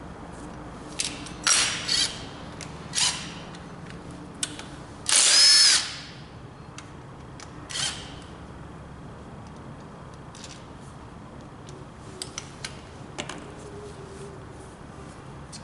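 Several short bursts from a power tool, the longest and loudest lasting about a second, over a low steady hum, followed by a few light clicks.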